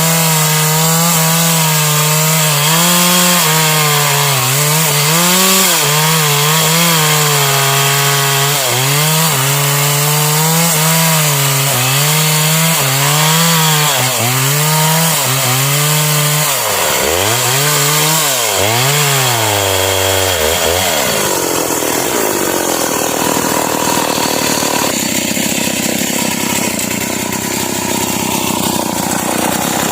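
Stihl MS 381 two-stroke chainsaw cutting sengon wood. Its engine pitch wavers under load and dips sharply and recovers several times past the middle. For the last third it changes to a rougher, unsteady sound.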